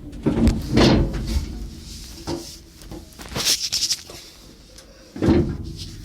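Handling noises as a part inside a combine's grain tank is folded back up by hand: a heavy thump about half a second in, a click, a scraping rustle in the middle and another thump near the end.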